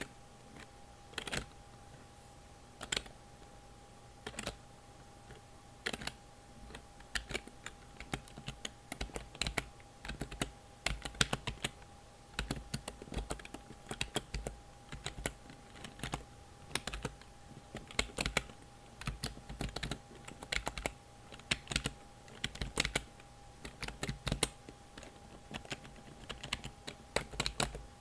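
Computer keyboard keys being pressed: single clicks a second or two apart at first, then quicker runs of typing from about ten seconds in. A faint steady hum sits underneath.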